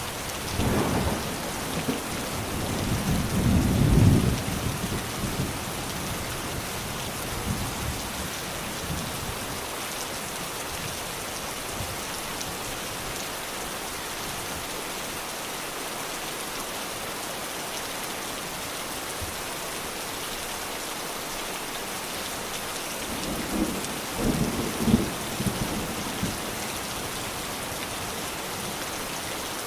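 Steady rain falling, with thunder rumbling twice: a longer roll starting about a second in and building to a peak a few seconds later, and a shorter one near the end.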